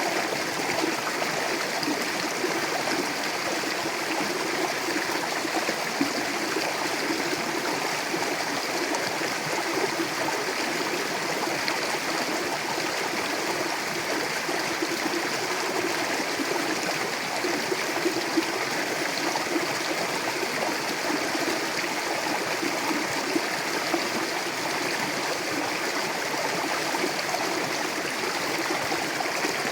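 Mountain river rushing and gurgling over rocks: a steady, even wash of water noise.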